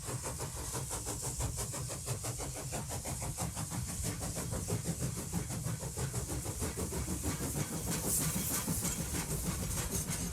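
Steam locomotive working under steam: rapid, even exhaust chuffs over a steady steam hiss and a low rumble.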